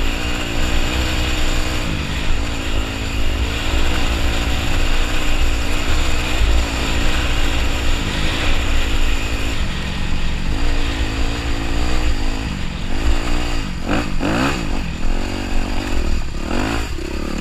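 Dirt bike engine running while riding, its pitch rising and falling as the rider works the throttle, with a quick rev near the end. Heavy wind buffeting on the microphone runs under it.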